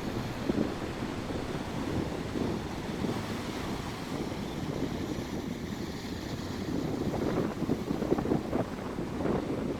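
Stormy, rough sea with waves breaking against rocks in a continuous churning wash, and wind buffeting the microphone.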